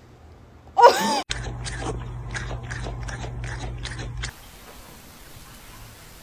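Crunchy chewing, about two bites a second for some three seconds over a low steady hum. Just before it comes a brief, loud cry with a wavering pitch.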